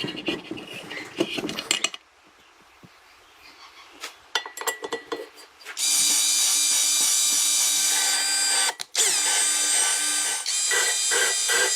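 A handheld power tool running in long, steady, high-pitched bursts, with a brief stop near the middle, after several seconds of knocks and clatter of handling.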